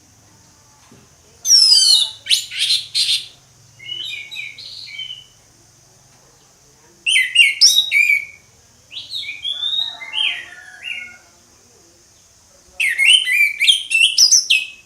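Orange-headed thrush singing its full song in three loud phrases of quick, varied whistled notes, separated by short pauses. A faint steady high hiss runs underneath.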